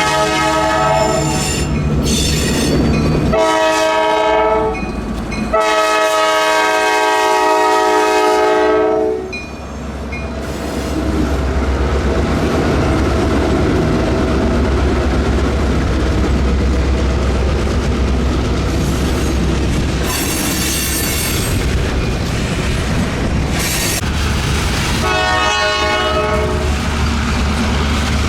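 Freight locomotive air horn sounding a chord in repeated blasts, the last about four seconds long. Then comes the steady rumble and wheel clatter of the passing train, and the horn sounds again near the end.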